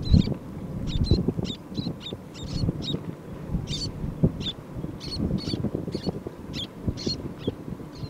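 A bird giving short, high calls over and over, irregularly about twice a second, over a low background rumble.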